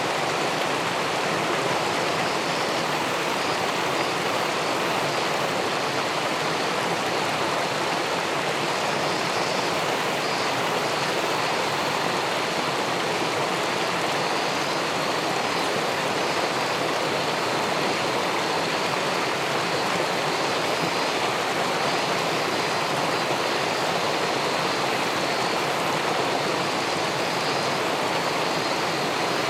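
Steady, unbroken rushing of river water spilling over a weir into the pool below it.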